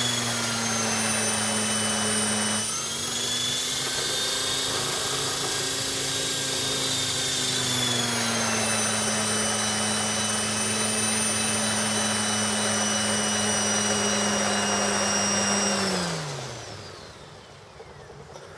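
Blade 400 electric RC helicopter running, with the whine of its motor and the whir of its rotor blades. The pitch drops slightly twice, and about sixteen seconds in the motor and rotor wind down and stop.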